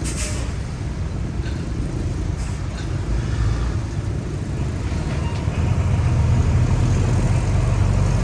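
Heavy earthmoving machinery's diesel engine running with a steady low rumble that grows louder about halfway through, with a brief rattle near the start.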